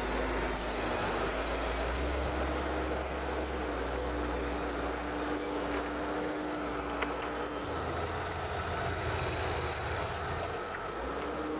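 Opel Astra J's 1.6-litre A16XER four-cylinder petrol engine idling steadily during an engine test, with a slight change in its low rumble about eight seconds in.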